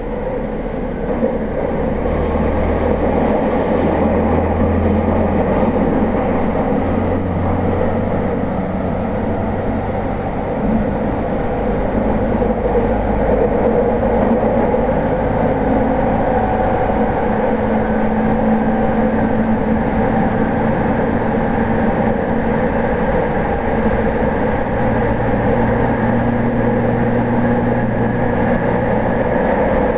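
Interior running noise of a Tokyo Waterfront Area Rapid Transit 70-000 series commuter car with its original, unrenewed VVVF inverter drive: a steady rumble of wheels and motors as the train runs. There are faint high squeaks in the first few seconds, and later a low hum comes and goes.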